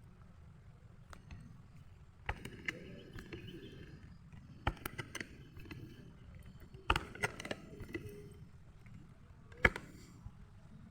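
Rustling and crunching through dry leaves and brush, with a handful of sharp snaps or cracks in small groups, the loudest near the end.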